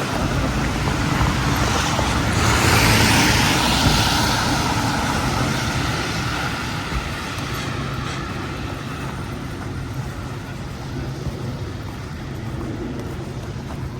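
Street traffic: a motor vehicle passes, its noise swelling a few seconds in and then slowly fading into a lower traffic hum.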